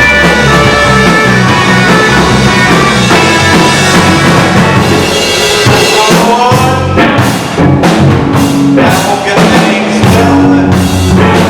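Rock music: a full band with drums and guitars playing loudly and steadily.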